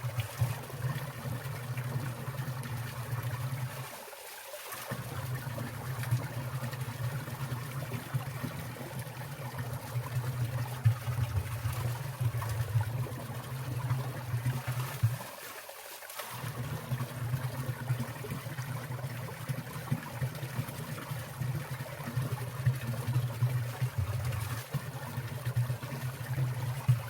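Winter valley stream water trickling and falling, a steady rushing with a strong low rumble and scattered louder splashes. The low rumble drops out briefly twice, about four seconds in and about sixteen seconds in.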